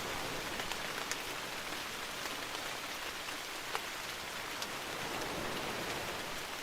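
Steady forest rain falling, an even hiss with the sharp taps of single drops landing close by, the loudest about three and a half seconds in.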